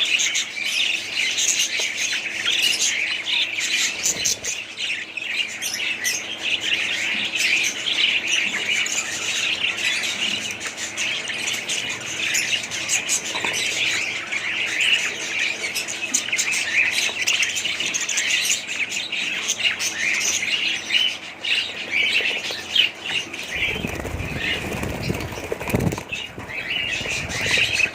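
A group of budgerigars chattering and chirping without pause, a dense mass of overlapping high calls. A low rumble comes in briefly near the end.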